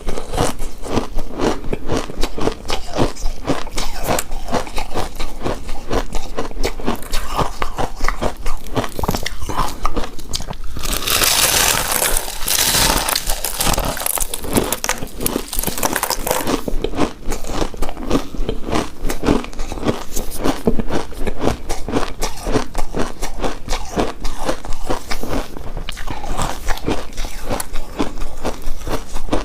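Close-miked eating of a chewy coconut-coated rice cake: dense, continuous wet chewing and biting clicks. A louder, hissier crackling stretch comes about eleven to sixteen seconds in.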